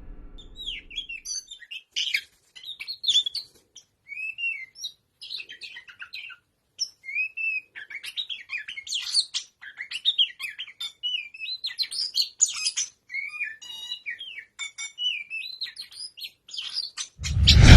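Oriental magpie-robin singing a long, varied song of short whistled notes, rising and falling slurs and quick chips, with a few brief pauses. In the last half second a loud, noisy swell takes over.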